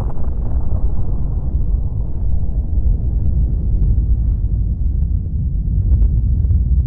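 Deep, continuous rumble of a large explosion, its higher part dying away over the seconds and leaving a heavy low rumble.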